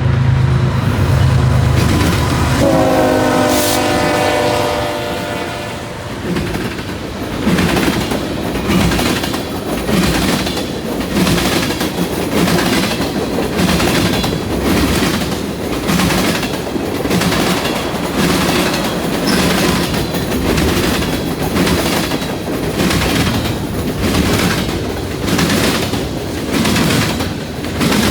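Freight locomotive horn blowing, its pitch dropping as the lead locomotives pass and fading out within the first few seconds. Then the freight cars roll by, their wheels clattering over the rail joints and junction switch in a regular clack about once a second.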